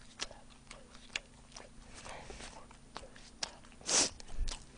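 Close-miked chewing of sauced fried chicken: soft wet mouth clicks and smacks, with one brief louder noise about four seconds in.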